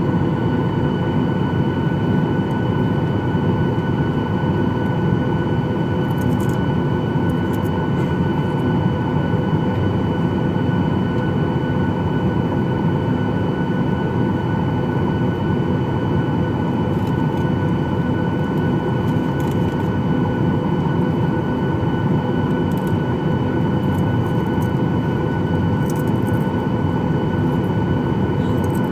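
Steady cabin drone of a Boeing 737-800's CFM56 jet engines heard from inside the cabin: a dense, even rush with a few steady whining tones and no change in level. A few faint ticks sound now and then.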